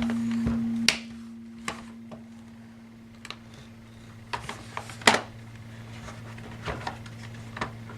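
Scattered sharp clicks and taps of small screws, a screwdriver and plastic laptop case parts being handled during disassembly, the loudest about five seconds in. Under them, a steady low hum starts suddenly at the beginning, louder for about the first second, then quieter but unbroken.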